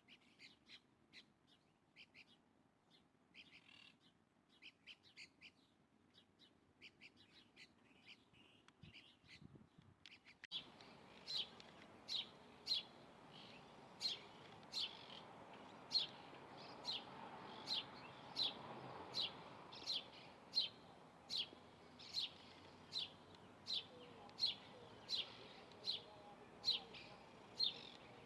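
Bird calling with short, high, sharp notes repeated over and over. About ten seconds in the background hiss rises abruptly and the calls become louder and evenly paced, a little more than one a second.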